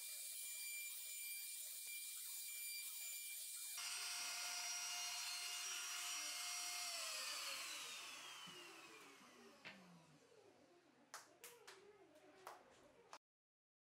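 Power tool motor running with a steady whine, then switched off about halfway through, its pitch falling as it winds down, followed by a few light clicks.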